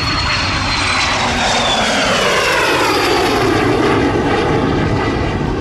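A jet aircraft flying past, its engine roar and whine dropping in pitch as it goes by.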